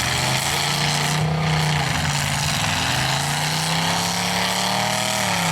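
Stock pickup truck engines revving in a demolition derby, their pitch rising and falling as the trucks push and ram.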